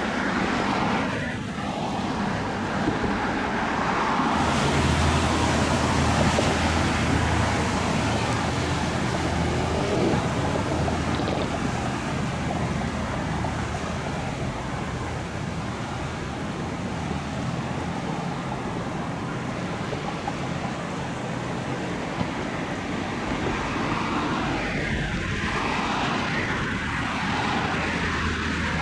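A powerboat's engines running as it passes, a steady low engine note over the rush of water and wake.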